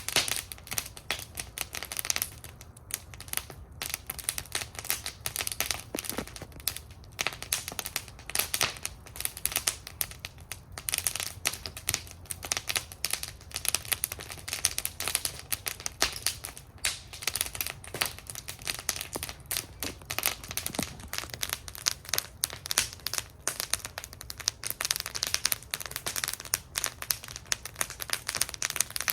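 Wood fire burning in a fire bowl, crackling with dense, irregular snaps and pops over a steady low rumble.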